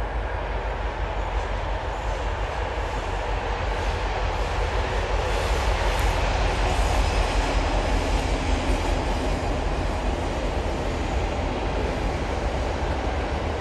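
Freight train hauled by an M62M diesel locomotive rolling past, its wagons' wheels running steadily on the rails with a heavy rumble. It gets a little louder around the middle.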